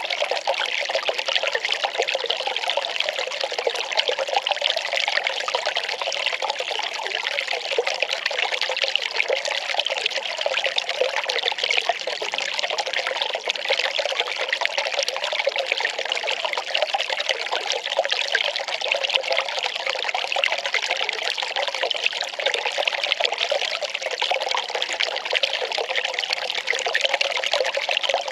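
Well water pouring in a steady, unbroken trickle.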